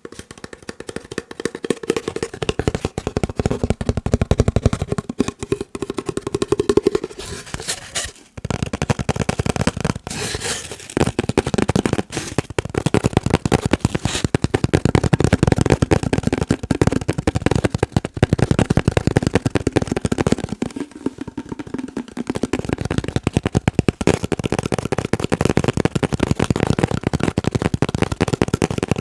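Very fast tapping on a paper roll: a dense, rapid patter of light taps, with a brief pause about eight seconds in.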